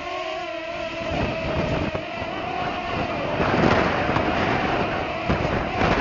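Parrot Swing drone's propeller motors whining steadily under a rushing, gusty wind noise on the microphone that grows louder about three and a half seconds in.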